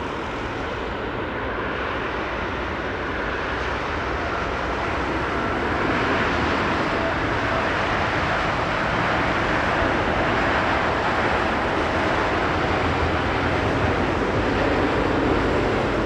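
Passenger jet airliner on final approach for landing, a steady engine noise that grows slowly louder, with a faint steady whine in it from about the middle on.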